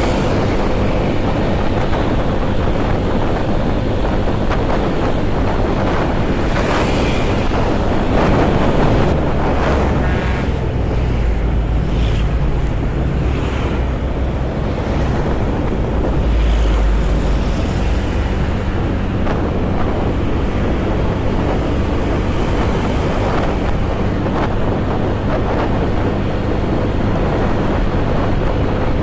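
Wind buffeting a moving motorcycle rider's microphone over the steady low hum of the motorcycle engine, with a deeper rumble swelling a couple of times.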